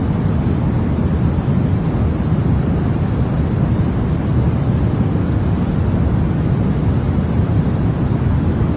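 Continuous sleep-aid white noise: a steady, unchanging hiss weighted toward the low end, so it sounds deep and rumbly rather than bright.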